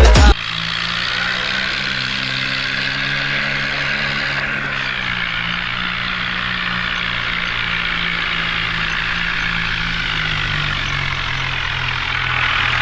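A vehicle engine idling steadily, its pitch settling slightly lower about five seconds in.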